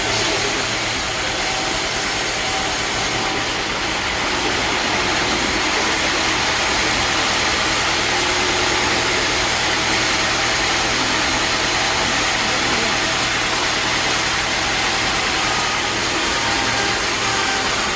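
Band sawmill running steadily with a continuous mechanical drone and hiss, the hiss growing brighter from about three seconds in until near the end.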